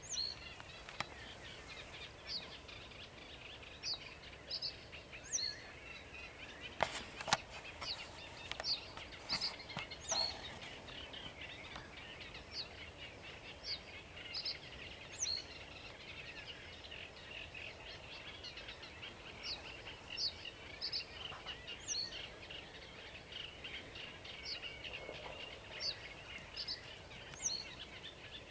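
A sedge warbler singing its continuous, scratchy chattering song while another bird repeats a short phrase of clear, high notes every few seconds. A couple of sharp clicks about seven seconds in.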